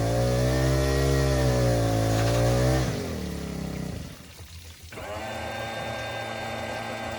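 MerCruiser 5.0L MPI V8 idling in a boat, then switched off about three seconds in, its note sinking away. About two seconds later a quieter, steady mechanical hum starts.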